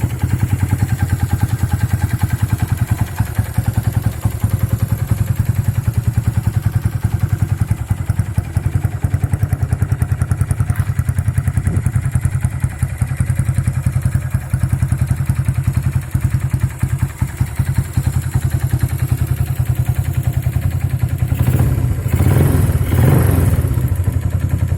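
Kawasaki Binter Merzy (KZ200) single-cylinder four-stroke motorcycle engine idling steadily with an even exhaust pulse. It gets louder for a couple of seconds near the end.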